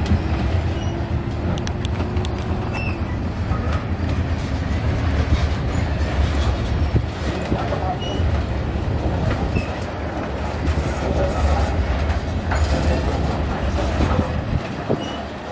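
A train's railcars rolling past with a steady low rumble and frequent clicks of wheels over rail joints. The rumble falls away near the end as the train clears.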